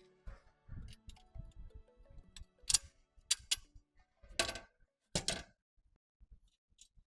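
Metal parts being handled: a run of light knocks, then sharp clicks and two louder clanks about a second apart. Faint background music fades out near the start.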